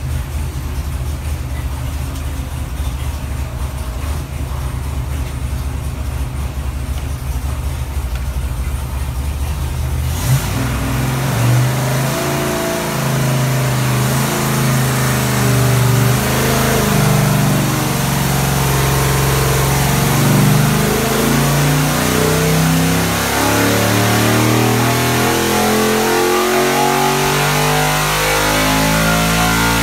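GM LS 408 stroker V8, naturally aspirated on an Edelbrock LS3 XT intake, running on an engine dyno. It holds steady at low revs for about ten seconds, then makes a wide-open-throttle pull, revs climbing steadily to over 6,000 rpm, and the throttle snaps shut near the end.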